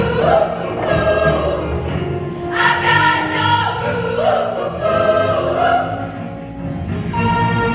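Women's show choir singing with a live band accompaniment.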